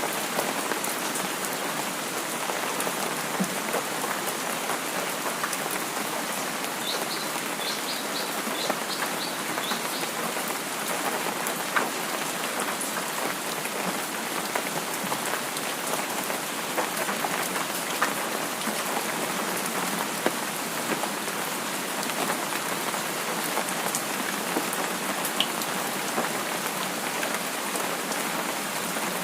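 Steady rain falling on a surface, an even patter with scattered louder drops. About seven seconds in, a short run of high chirps lasts about three seconds.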